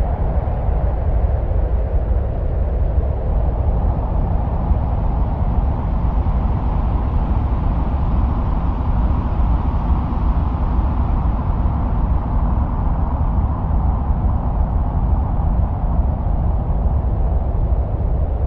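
Steady wind-like rumble presented as the sound of Mars: a deep, constant roar with a hiss above it that slowly swells and fades again, without breaks or distinct events.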